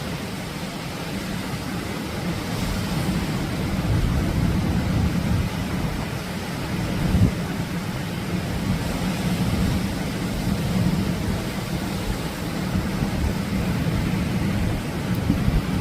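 Atlantic surf on a beach: a steady rush of breaking waves with a deep rumble underneath, swelling and easing a little over several seconds.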